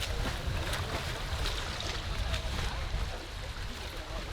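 Steady rush of water with an uneven low rumble of wind on the microphone.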